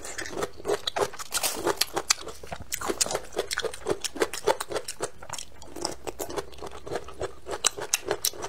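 A person biting and chewing a tender braised bamboo shoot, with a quick run of moist crunching and smacking strokes several times a second.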